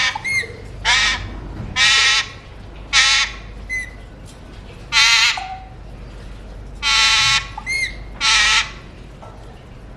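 Alexandrine parakeet giving a series of about six loud, harsh squawks, roughly a second apart, with a few short whistled notes between them; the calls stop about nine seconds in.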